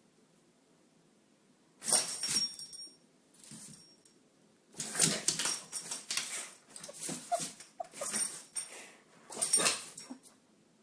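A dog making a series of short sounds, beginning about two seconds in, with two brief high whines near the middle.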